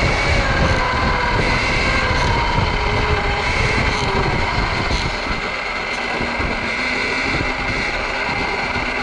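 Sur-Ron electric dirt bike being ridden: the electric motor's whine rises and falls in pitch with the throttle, over wind rumble on the microphone that eases about five seconds in.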